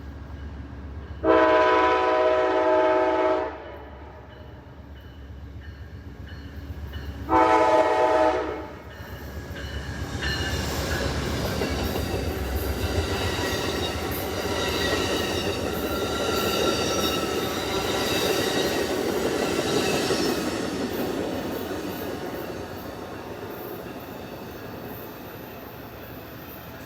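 Amtrak passenger train's locomotive air horn sounds a long blast about a second in and a shorter one around seven seconds. Then the train passes with a rumble and wheel clatter on the rails, building for about ten seconds and fading.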